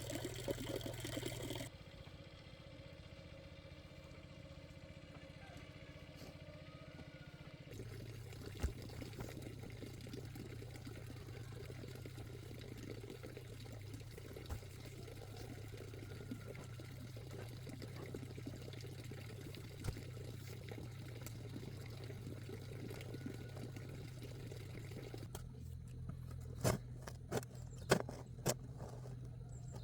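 Water running and trickling, over a steady low hum, with a few sharp knocks near the end.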